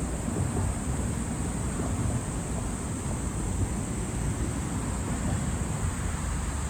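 Summer outdoor ambience: a steady high-pitched drone of insects over a continuous low, fluttering rumble.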